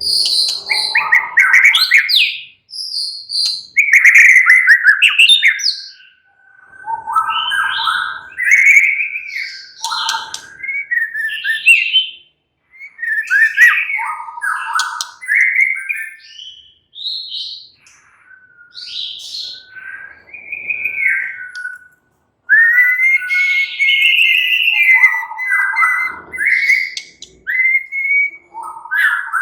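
White-rumped shama (murai batu) singing a varied song of rich whistled phrases, many notes gliding up or down, in bursts separated by short pauses.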